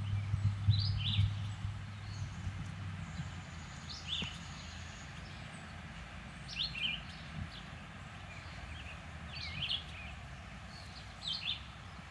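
Small birds chirping in short calls, often in pairs, every two or three seconds. A low steady engine-like hum is heard at first and fades out over the first few seconds.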